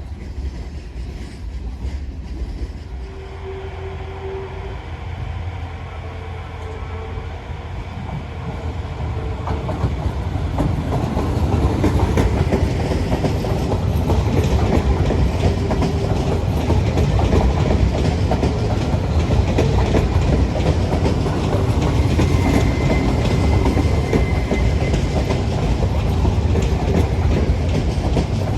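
A train passing close by, wheels clacking over the rails, growing louder over the first ten seconds or so and then holding steady.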